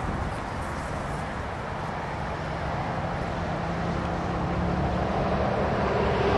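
A vehicle engine running with a low steady hum, growing louder in the last two seconds.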